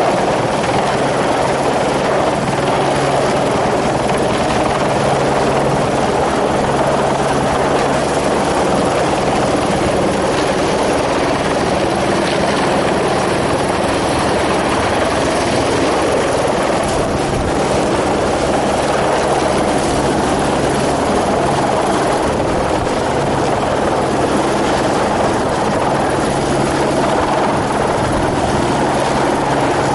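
Helicopter running steadily: a continuous, unchanging drone with a low steady hum beneath it.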